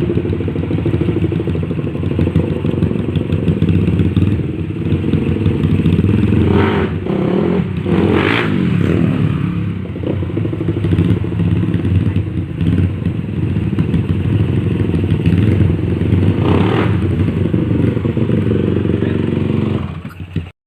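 Honda CRF250 single-cylinder four-stroke motorcycle engine running at a steady idle, with brief throttle blips about seven to eight seconds in and again around sixteen seconds, while it is being tuned. The sound cuts off suddenly near the end.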